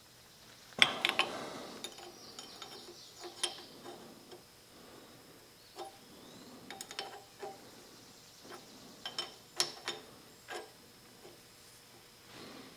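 Metal tools and parts being handled: a sharp metal clank just under a second in rings briefly, followed by scattered lighter clicks, taps and clinks.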